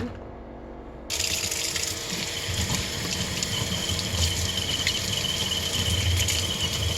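Kitchen tap running into a sink, a steady stream of water that starts about a second in, with a faint high whine from the faucet.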